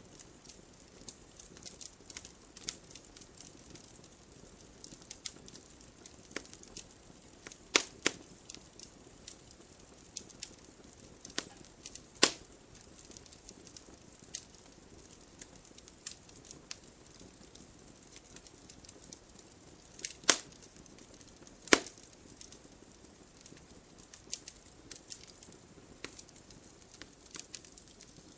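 Wood fire crackling: a low steady hiss under constant small snaps, with a few much louder sharp pops, two of them in quick pairs.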